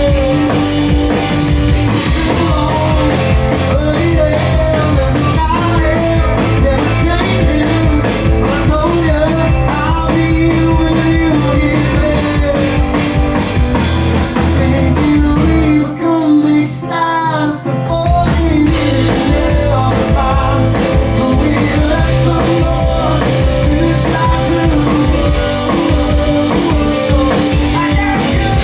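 Live rock band playing loudly, with electric guitar over bass and drums. About halfway through, the bass and drums drop out for a couple of seconds, then the full band comes back in.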